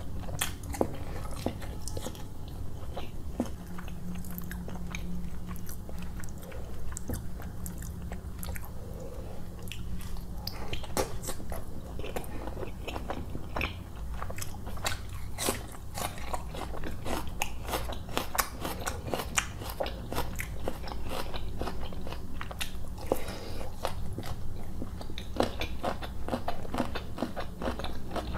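Close-miked chewing and biting of chicken curry with roti, with many irregular mouth clicks and some crunching.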